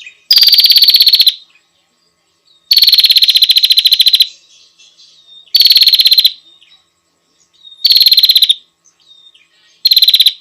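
Female prinia (prenjak) calling: five loud, rapid, buzzy trills about two seconds apart, each lasting about a second, with soft short chips in between. This is the female's call to a male.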